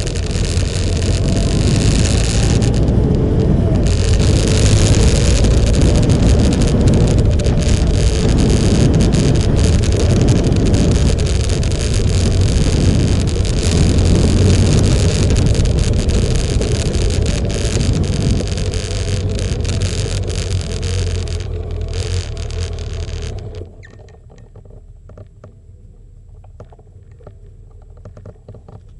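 Motorcycle on the move: a steady engine drone under heavy wind noise on the microphone. The sound cuts off abruptly about 23 seconds in, leaving only a faint hum and scattered light ticks.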